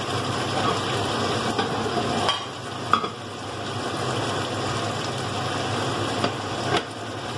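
Stir-fried roasted pork and Chinese kale sizzling in a nonstick wok on the heat left after the hob is switched off, with a few sharp clicks of a metal spoon against the pan.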